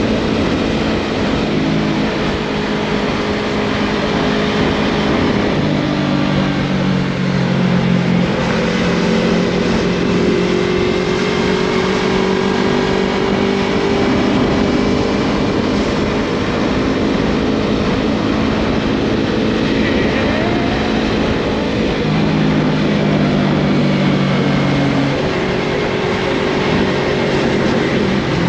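Yamaha MT-03 motorcycle engine running through a Scorpion full aftermarket exhaust system while riding, its note shifting up and down in pitch in steps as the engine speed changes, under a steady rush of wind and road noise.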